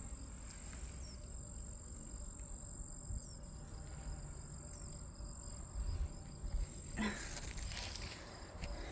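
Insects trilling in one steady, thin, high-pitched note that stops about seven seconds in, over a low rumble of wind on the microphone.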